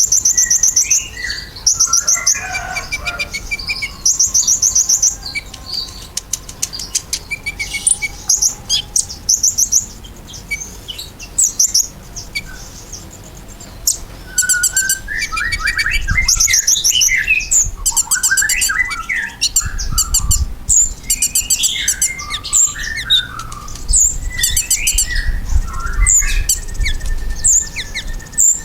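Kolibri ninja (Van Hasselt's sunbird) singing: short, rapid, very high trills repeated again and again, mixed with lower, quicker chirping notes.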